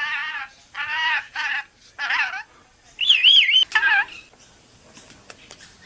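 Pet rainbow lorikeet calling in a string of short, pitched, talk-like phrases. About three seconds in comes a loud, wavering high whistle, then one more call, and after that the bird goes quiet.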